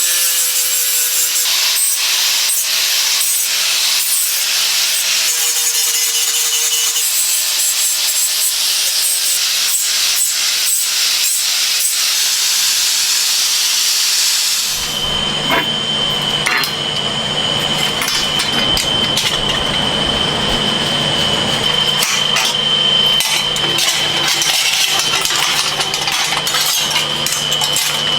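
Abrasive metalworking noise: dense rasping and scraping of a tool working metal. About halfway through it changes suddenly to a steady machine hum with a high, even whine and scattered knocks.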